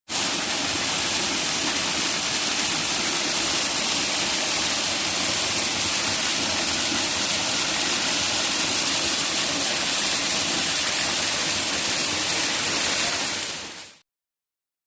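Waterfall rushing: a loud, steady hiss of falling water that fades out shortly before the end.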